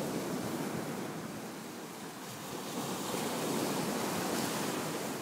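Ocean surf washing on the shore, a steady rush that eases about two seconds in and swells again.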